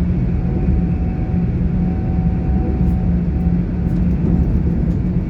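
Interior noise of a GWR Class 800 IET train in motion: a steady rumble of the running train with a constant low hum.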